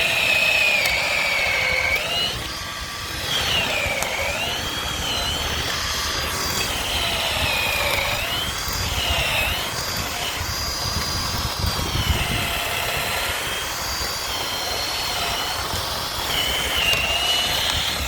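Handheld electric power tool working timber, its motor whine running continuously and dipping in pitch again and again as it bites into the wood, then recovering.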